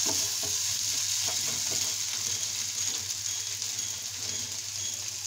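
Spiced potatoes sizzling in mustard oil in a kadhai, with a wooden spatula scraping and stirring them through the pan. A few spatula strokes stand out in the first couple of seconds over the steady hiss of the frying.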